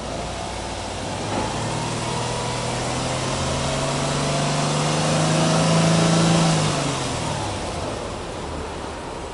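Subaru Impreza 1.5i-L's 1.5-litre flat-four (boxer) engine revved slowly with no load, heard from behind at the exhaust. The revs climb gradually for about five seconds, then drop back to idle.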